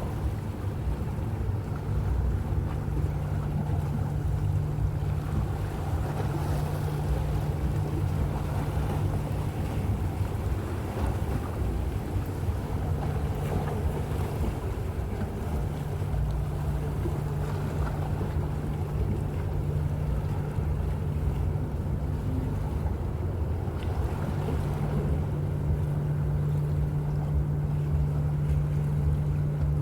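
Steady low hum and rumble of a large cruise ship's engines as it gets under way, with a constant low drone, plus wind buffeting the microphone.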